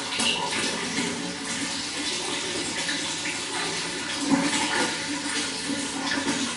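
Running water flowing steadily, a continuous splashing and gurgling rush.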